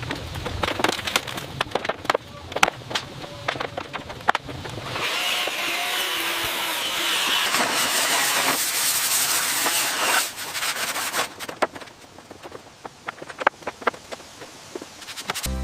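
Wood restoration work sounds: many sharp taps and knocks on wood, with a steady rasping stretch of sawing or sanding from about five to ten seconds in.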